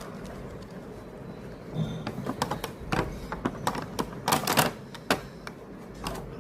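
Irregular run of sharp plastic clicks and clatter from a plastic toy and its packaging being handled, starting about two seconds in, thickest near the middle, and dying away about five seconds in.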